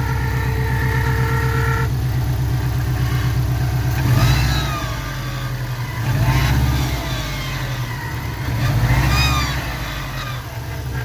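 2004 Subaru WRX's turbocharged flat-four engine running, revved three times, with a whine that rises and falls with each rev. A steady whine near the start cuts off after about two seconds. This is the weird noise the owner cannot identify, with an engine that otherwise runs strong.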